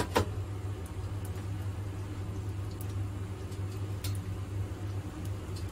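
A metal spatula clacks twice against the wok right at the start, then raw salted egg yolks cook gently in a little oil over very low heat with a faint soft sizzle, over a steady low hum.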